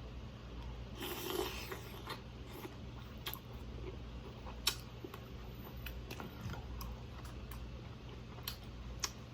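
Close-miked chewing and eating sounds, with scattered sharp clicks and mouth smacks and a brief crunchy rustle about a second in.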